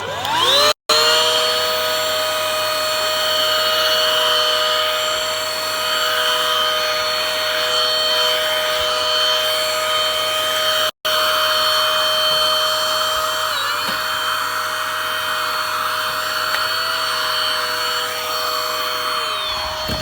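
Two small handheld vacuum cleaners running side by side for a suction test. Their motors spin up at the start into a steady high whine over a rush of air, and one winds down near the end while the other keeps running.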